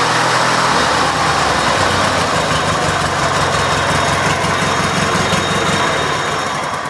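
1995 Briggs & Stratton 16.5 hp flathead opposed-twin engine running steadily at full throttle, revving a little lower than it should, which the owner puts down to throttle linkage still needing adjustment. It starts to wind down right at the end.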